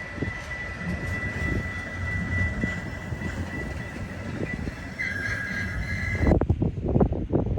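Train rolling past with a low rumble and a steady high-pitched wheel squeal, which splits into two close tones shortly before it cuts off abruptly. Wind buffeting the microphone follows near the end.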